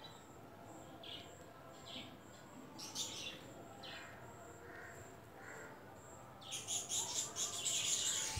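Birds chirping: short falling calls about once a second, then a busier run of chirping near the end.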